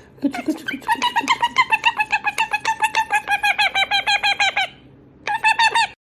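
Quaker parrot (monk parakeet) chattering in a fast, steady run of repeated harsh chirps, about six a second. It pauses briefly near the end, then gives a short final run.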